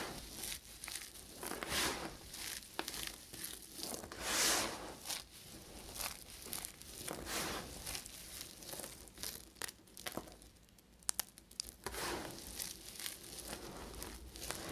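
Knife cutting through bars of soap: crunchy, scraping strokes every few seconds, with small clicks between them.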